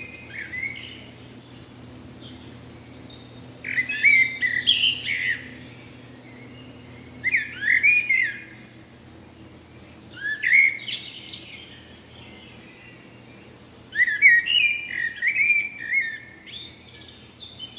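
A songbird singing in short bursts of quick chirping notes, four phrases a few seconds apart, over a faint steady low hum.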